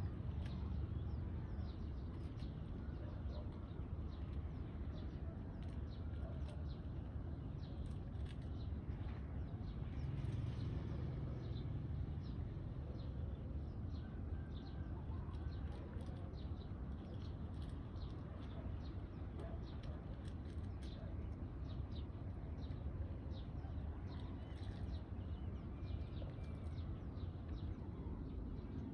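Birds chirping in many short, high calls scattered throughout, over a steady low rumble.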